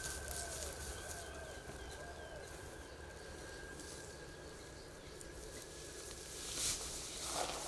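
Outdoor ambience with birds calling: a few short, low, curved calls in the first couple of seconds and some higher chirps, over a thin steady high tone that stops about six and a half seconds in. A brief rustling hiss comes near the end.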